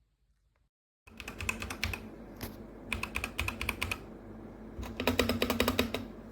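Typing on a Dierya DK61se 60% mechanical keyboard with red linear switches: quick runs of key clacks starting about a second in, in three bursts with short pauses between.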